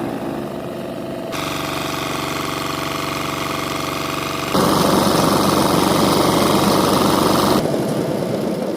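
An engine running steadily, stepping up abruptly to a louder, busier note about a second in and again about halfway through, then easing back down near the end.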